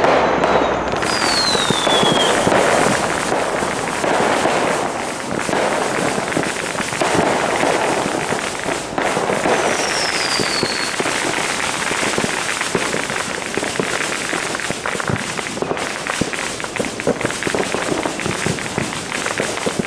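Continuous crackling and popping of fireworks and firecrackers going off together, with a falling whistle from a rocket about two seconds in and another about halfway through.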